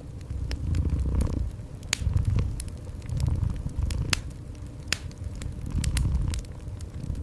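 A cat purring in low swells that rise and fall every second or two, over a wood fire crackling with frequent sharp pops.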